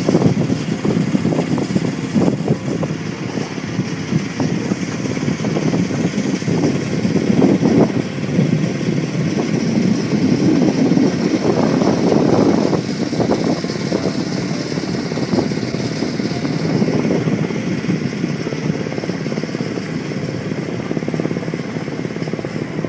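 A boat engine running steadily, a dense unbroken rumble.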